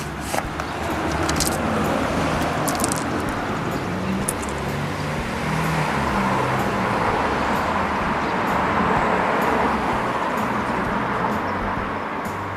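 A motor vehicle going by: a steady wash of road noise that builds about a second in, holds, and eases off near the end, with a low hum underneath.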